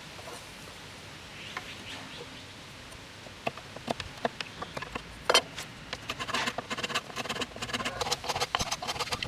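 A faint steady hiss, then a run of sharp clicks and short scrapes starting about a third of the way in, growing quick and dense near the end.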